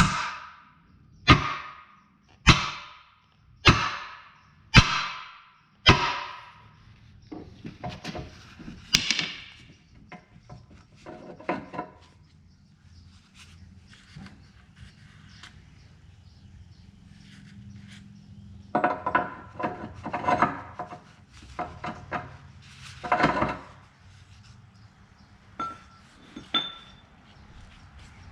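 Hammer blows on the bent steel ear of a skid-steer quick-change bracket, flattening it. Six hard, ringing strikes about a second apart, then quieter knocks and taps, then another burst of ringing strikes about twenty seconds in.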